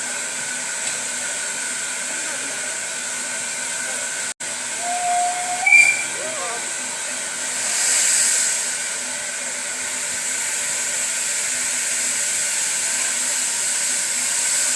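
Steam locomotive hissing steam steadily as it prepares to leave the station, with a short whistle about six seconds in and a swell of louder steam hiss around eight seconds.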